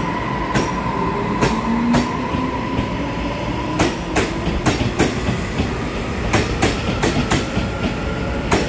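Taiwan Railways EMU500-series electric commuter train pulling out past the platform: a steady whine over rolling rumble, with wheels clacking over the rail joints, the clacks coming faster and more regularly after a few seconds.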